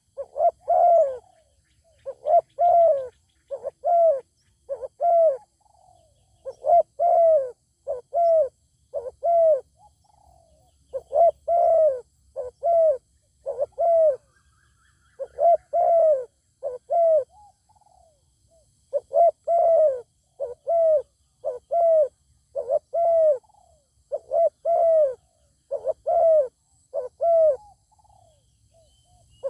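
Spotted dove cooing in repeated phrases of three to five short arched coos, with brief pauses between the phrases.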